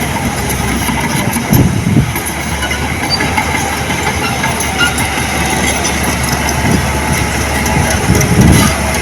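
Heavy earthmoving machine's diesel engine running steadily, with rattling and clanking, and two louder surges, about a second and a half in and again near the end.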